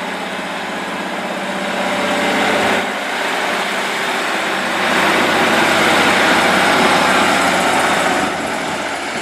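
Class 156 Sprinter diesel multiple unit's underfloor Cummins diesel engines working hard as the unit pulls out of the station. The engine note swells about two seconds in, dips briefly, rises again about halfway through and eases off near the end.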